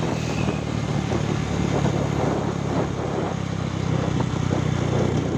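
Motor vehicle engine running at a steady speed, a low even hum with no change in pitch.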